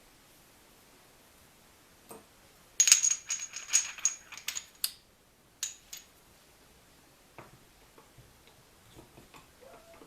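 Small metal parts clinking and rattling against each other for about two seconds, with a high metallic ring, then one more clink; a few faint taps follow.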